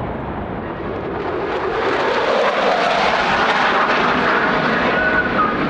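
F-35A fighter's single Pratt & Whitney F135 turbofan as the jet passes overhead, the noise swelling about a second and a half in and staying loud to the end.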